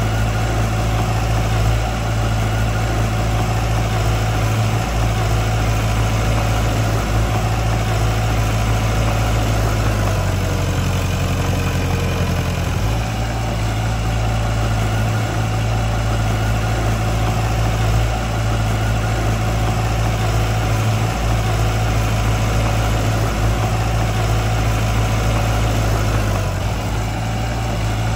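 Heavy diesel engine of construction machinery running steadily at a low, even speed, its note shifting for about three seconds around ten seconds in before settling back.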